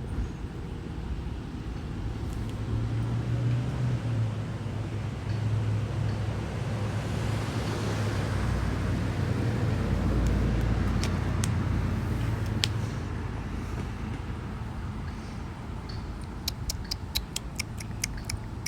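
Road traffic: a vehicle goes by, its noise swelling and fading about halfway through, over a steady low engine hum. Near the end comes a quick run of about a dozen sharp clicks, roughly six a second.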